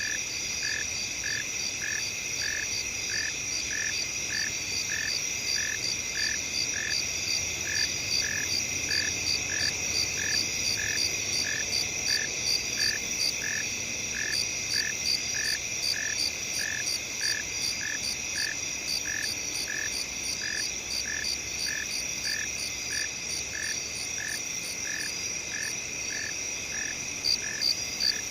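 Night countryside ambience: crickets and other insects trilling steadily at high pitch, with a regular chirp repeating about twice a second throughout.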